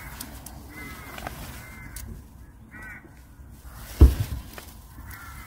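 A bird calling three times in short calls, with a single loud, low thump about four seconds in.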